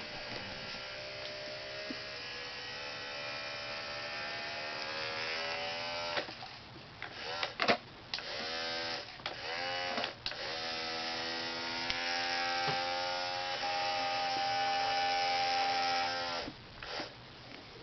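Small electric motor and gears of a motorized Tonka toy truck whirring. It runs steadily for about six seconds, starts and stops several times in short bursts, then runs steadily again for about six seconds.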